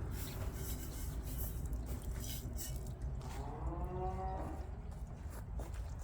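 A single drawn-out animal call lasting about a second, rising and then sliding down, a little past the middle, over a steady low outdoor rumble with a few scattered clicks.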